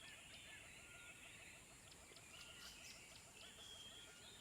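Faint nature-sound ambience: birds chirping and calling, the calls coming and going throughout.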